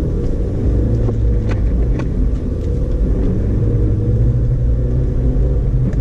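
A 2012 Audi A4 Quattro driving on a snow-covered road: a steady low rumble of engine and tyres, heard inside the cabin, with a couple of brief clicks about a second and a half and two seconds in.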